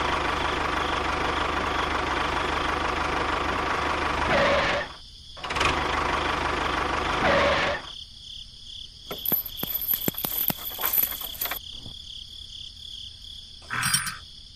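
Small motor of a miniature model tractor running with a steady whirring hum, stopping briefly about five seconds in and running again for about two more seconds. After it stops, light clicks and rattles of a small metal chain being handled, with crickets chirping steadily behind.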